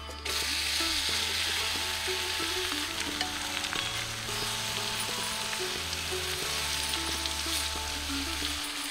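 Chopped starfruit tipped into hot oil with red chillies in an iron kadhai, starting to sizzle abruptly as it hits the oil. It keeps frying with a steady sizzle while being mixed and stirred with a spatula.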